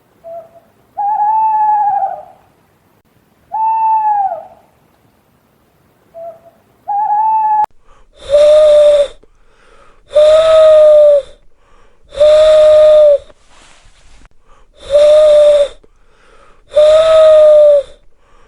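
Owls hooting: a series of single, slightly arched hoots, each about a second long and a couple of seconds apart. About eight seconds in the recording changes to louder, lower-pitched hoots at a steady two-second rhythm, over a steady high-pitched background hiss.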